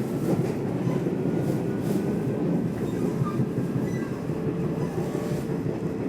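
Nishitetsu Tenjin-Ōmuta Line electric train running between stations, heard inside the carriage: a steady rumble of wheels on the rails.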